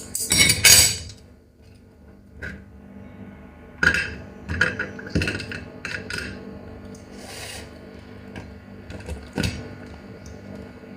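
Hard crab shell being cracked and crunched while eating: a loud burst of cracking in the first second, then smaller snaps and crunches about four to six seconds in and again near the end, over faint steady background music.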